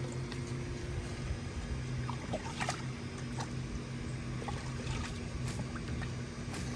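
Water trickling and splashing in a cooler as chicken carcasses are handled in it, with a few light knocks, over a steady low machine hum.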